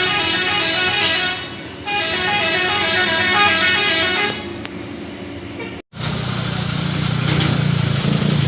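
A vehicle horn playing a quick stepping tune in two bursts, the second longer. After an abrupt cut, an engine runs with a low steady drone that grows a little louder.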